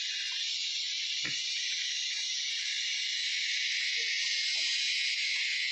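Steady, high-pitched chorus of forest insects, an even hiss that does not change. A single soft knock comes about a second in.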